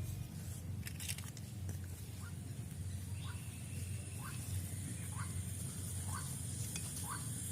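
A bird calling with a short falling note about once a second, six times, over a steady low rumble.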